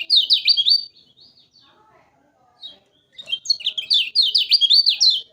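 Kecial kuning, a white-eye, singing: a quick run of high, sweeping chirps in the first second, a single short note, then a longer fast run from about three seconds in.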